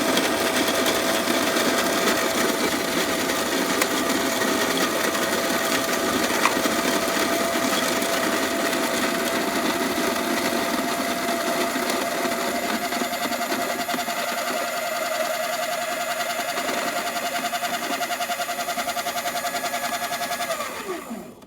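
Electric coffee grinder grinding a dose of coffee beans: a loud, steady motor whine over the grinding noise. It starts to pulse in its last few seconds, then the motor winds down and stops near the end.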